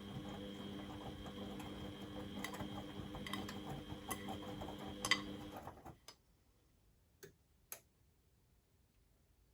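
Beko WMD 46160 washing machine's drum motor running through a wash-tumble turn, a steady whine with scattered ticks from the drum, stopping about six seconds in. It rests with two sharp clicks, then starts turning again at the very end.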